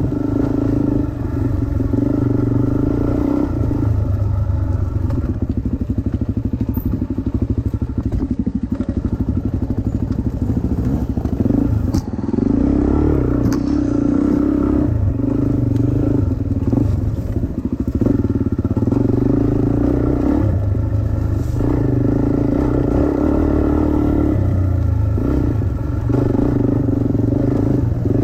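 Dirt bike engine running under changing throttle, its pitch rising and dropping every few seconds as it is ridden, with a couple of sharp knocks about halfway through.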